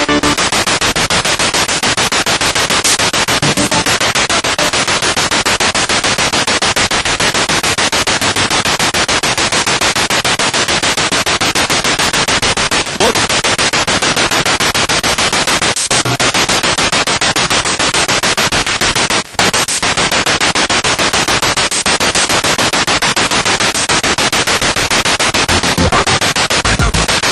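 Spirit box radio sweeping through stations: loud, continuous static chopped into rapid, even pulses by the sweep, with a brief dropout about nineteen seconds in.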